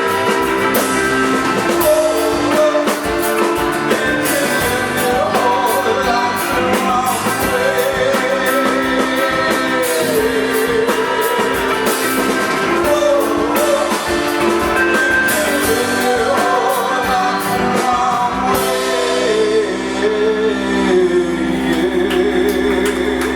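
Rock band playing live with a lead singer, drums and guitars. Near the end the drums stop and a held chord rings under the voice as the song closes.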